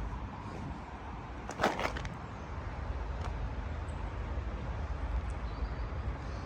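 Steady low rumble of wind and passing road traffic, with one short sharp noise about a second and a half in.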